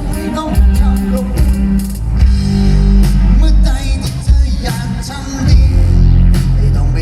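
Live rock band playing loudly, with heavy bass, drums and electric guitar, and a singer's voice over them.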